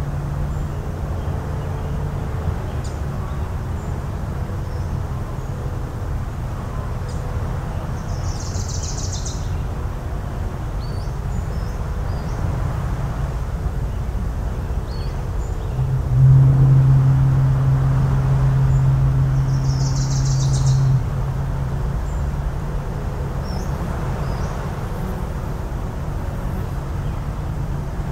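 A foghorn sounds one long, low, steady blast of about five seconds, starting about sixteen seconds in, over a steady wash of surf. A fainter low horn tone trails off in the first couple of seconds, and a few short bird calls come and go.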